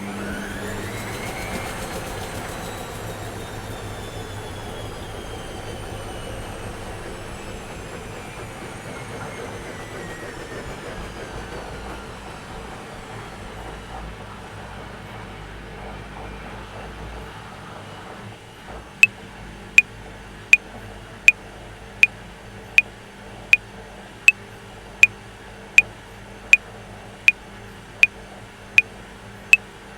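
Washing machine running, its motor whine falling slowly in pitch as the drum winds down over a steady hum. About two-thirds of the way in, sharp metronome clicks start at 80 beats a minute.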